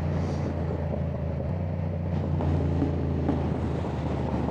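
Yamaha R7's parallel-twin engine through an aftermarket exhaust, running at steady low revs while riding, heard from inside the rider's helmet with wind and road noise.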